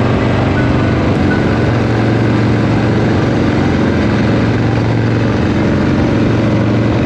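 Motorcycle engine running at a steady, unchanging speed, loud, with a constant hiss of wind and road noise over it.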